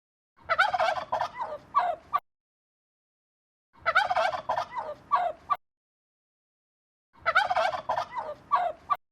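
Farm fowl calling in three bursts of rapid, warbling calls, each about two seconds long, with silence between them.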